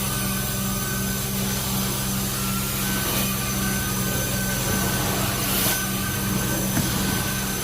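Steady drone of a running carpet-cleaning machine's motor, with an even low hum under a noisy rush and a short hiss about five and a half seconds in.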